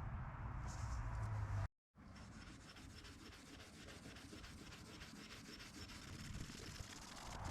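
Faint hand rubbing on a rusty steel punch being cleaned, in even back-and-forth strokes about four a second. A low hum in the first second and a half cuts off abruptly at an edit before the rubbing.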